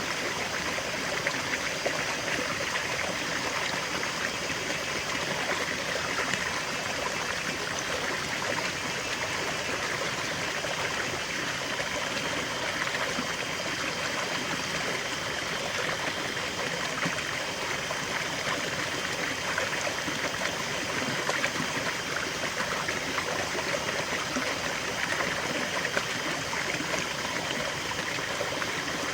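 River water flowing steadily over rocks, an even rushing with fine splashing and trickling detail.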